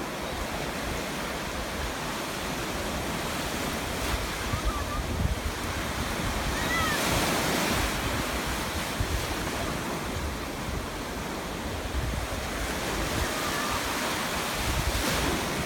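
Storm surf on the Black Sea shore, waves breaking and washing in a steady roar, with wind rumbling on the microphone. The surf swells loudest about halfway through and again near the end.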